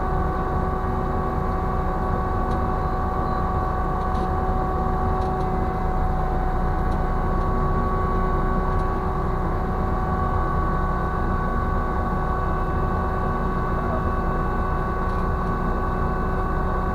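Ship's deck crane machinery running steadily while the jib is lowered: a constant low rumble with a few steady whining tones over it.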